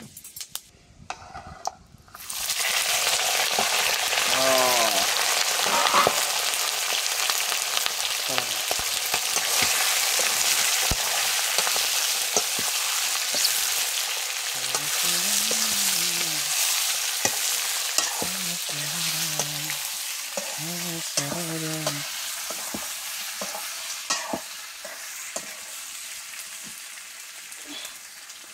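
Food dropped into hot oil in a cooking pot sets off a sudden loud sizzle about two seconds in. The frying goes on, with short scattered clicks, and slowly dies down towards the end.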